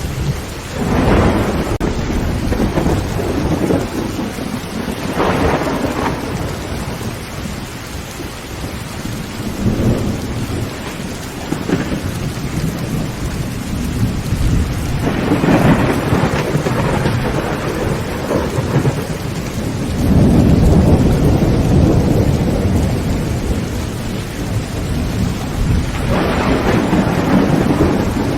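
Heavy rain drumming steadily on a tin roof, with about six rolls of thunder swelling up and dying away. The deepest and loudest roll comes about twenty seconds in.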